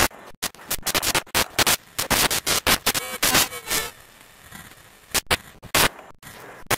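Irregular run of sharp knocks, clicks and scraping, many in quick succession, with a quieter stretch about two-thirds of the way through.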